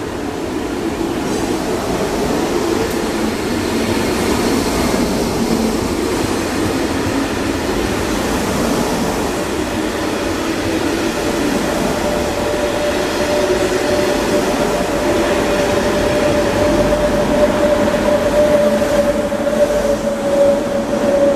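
SJ X2000 high-speed electric train accelerating away along the platform, its coaches rolling past with a steady wheel-and-rail rumble. From about halfway a steady hum of the electric traction inverters holds on top of the rumble.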